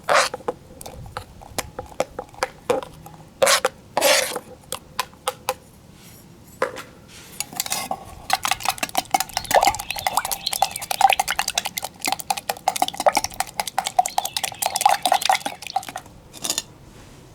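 Eggs being beaten with a utensil in a metal container: scattered knocks and taps in the first half, then from about halfway a fast, dense run of clinking strokes with a ringing metal tone, lasting about eight seconds.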